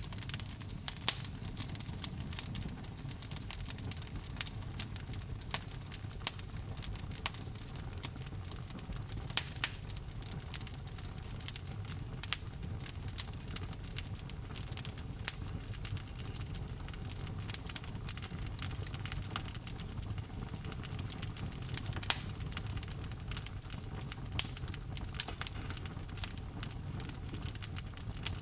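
Wood logs burning in a fireplace: irregular sharp crackles and pops, a few of them loud, over a steady low rumble of the flames.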